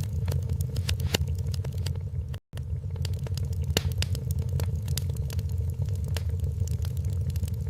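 Wood fire crackling in a fireplace: irregular sharp pops and snaps over a steady low rumble of the flames. The sound cuts out for an instant about two and a half seconds in.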